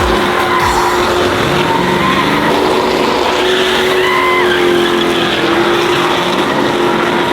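A truck doing a burnout: the engine held at high revs, its pitch rising and falling, with tyres spinning and squealing against the pavement.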